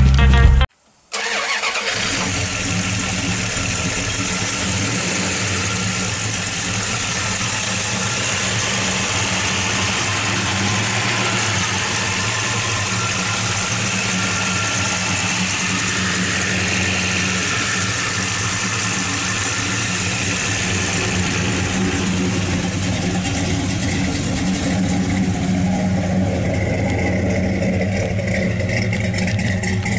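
The 1967 Plymouth Belvedere's V8 engine idling steadily, with an even low running note. Brief music plays in the first second before the engine sound cuts in.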